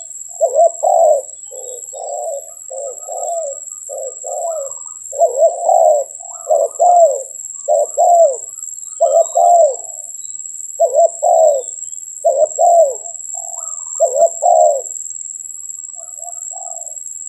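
Spotted dove cooing: a long series of short low coos in twos and threes, repeated over and over, stopping about fifteen seconds in with a couple of faint notes after. A steady high-pitched whine runs underneath.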